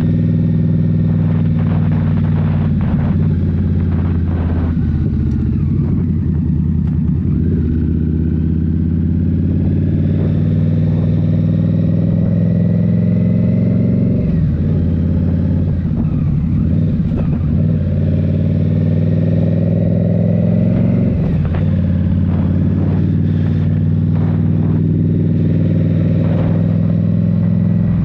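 Indian Scout Rogue's 69 cu-in V-twin running through a Rinehart slip-on exhaust while riding, its note rising and falling with the throttle. It dips briefly about halfway through and again about three quarters through.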